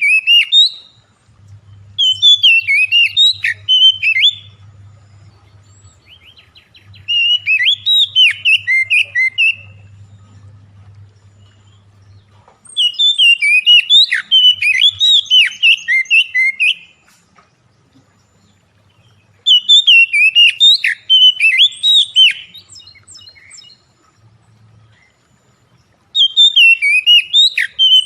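Songbird lure recording: a bird sings loud bursts of rapid, varied whistled notes, each phrase lasting two to four seconds, with pauses of a few seconds between them, about five phrases in all. A faint low hum sits underneath in some of the pauses.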